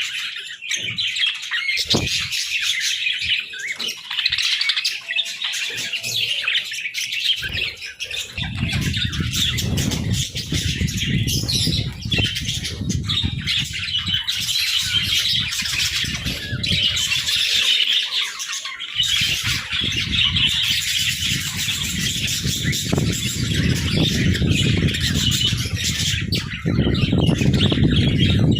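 A flock of budgerigars chattering without a break, a dense mix of warbling chirps and squawks. About eight seconds in, a loud, rough low noise comes in underneath and continues.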